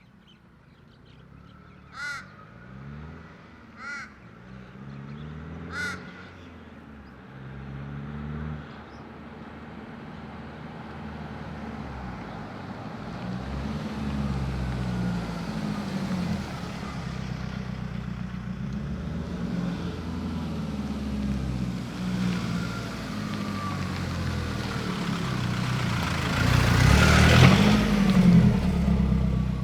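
Nissan Navara D22's YD25 turbo-diesel engine through a 3-inch exhaust, revving up through rising and falling pitch steps and growing steadily louder, with its loudest surge near the end. Three caws sound in the first few seconds.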